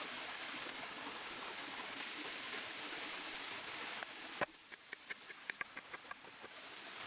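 Food sizzling over a campfire: a steady hiss, broken about four seconds in by a sharp click, after which it drops quieter with a run of small crackling pops before the hiss swells back near the end.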